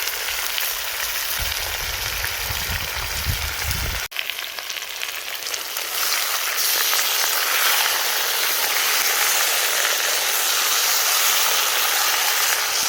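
Food sizzling as it fries in oil in a kazan, a steady hiss. There is a brief break about four seconds in, and the sizzle is louder from about six seconds on.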